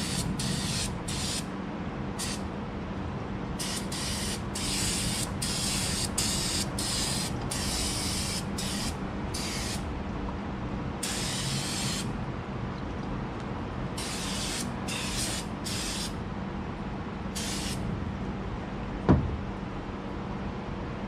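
Aerosol spray-cleaner can sprayed in a string of short spurts of hiss, one held for about a second, over a steady background hum. A single sharp knock comes near the end.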